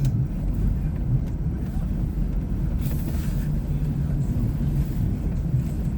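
A vehicle driving along, its engine running with a steady low rumble. A brief hiss comes about three seconds in.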